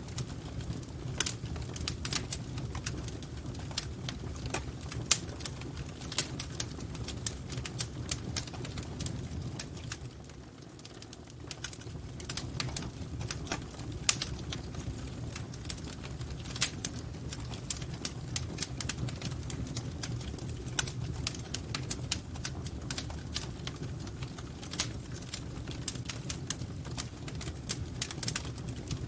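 Crackling wood fire: frequent sharp pops and snaps over a steady low rumble of the flames, briefly quieter about ten seconds in.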